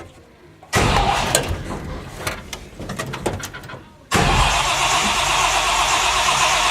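1957 Chevy's 350 small-block V8 with two four-barrel carburetors being cranked on the starter in two stretches, starting about a second in and again about four seconds in, without catching: a cold engine with no choke reluctant to fire.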